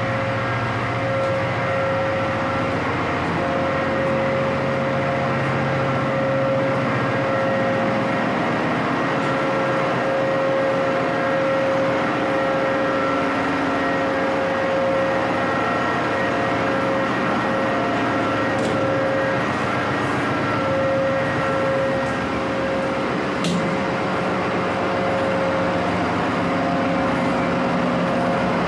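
Loud, steady machinery running, with a constant hum and a held whine, typical of a ship's engine room. One sharp click comes about two-thirds of the way through.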